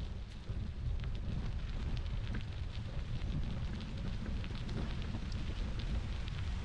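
Bicycle riding along a gravel rail trail: wind buffeting the microphone as a steady low rumble, with a light crackle of tyres rolling over the crushed stone.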